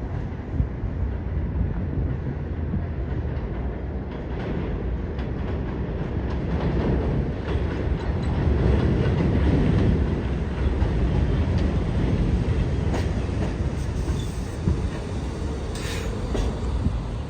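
New York City subway train running along the elevated steel structure of the BMT West End Line: a steady low rumble with scattered clicks of wheels over rail joints, loudest about halfway through.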